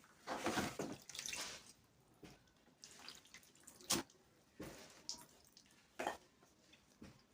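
Water splashing and dripping in short irregular bursts, from cooling a freshly heated plastic radiator tank, with a sharp knock about four seconds in.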